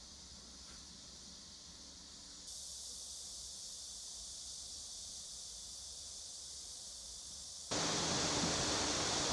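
Steady outdoor background noise that jumps louder twice, abruptly, as the shots change. In the last second or so it becomes a loud, even rush with a faint steady hum under it.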